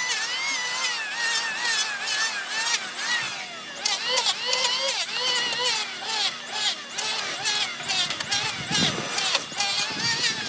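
A power tool working on wood, its motor pitch wavering up and down under load, with many sharp clicks and ticks throughout.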